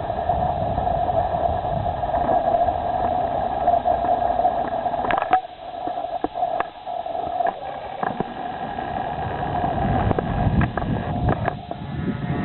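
Motor of a radio-controlled model PT boat whining at a steady pitch as the boat runs on the water. It drops away for a couple of seconds in the middle, with scattered clicks, then returns.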